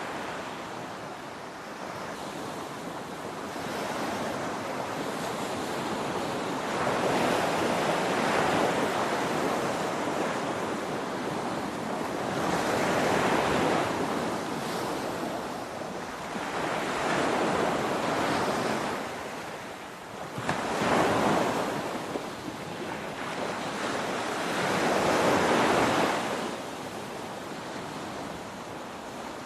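Ocean waves breaking on a shore: a continuous rush of surf that swells and falls back every four to five seconds, with about five larger waves.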